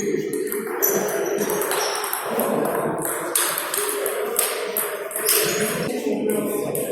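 Table tennis balls clicking off rackets and tables in an irregular stream of sharp knocks, from several tables in play at once.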